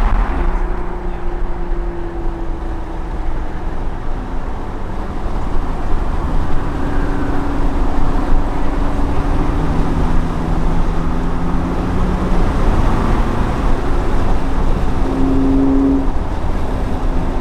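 Nissan 350Z's 3.5-litre V6 running steadily through high-flow catalytic converters and a Motordyne exhaust, a loud, deep drone whose pitch shifts slowly.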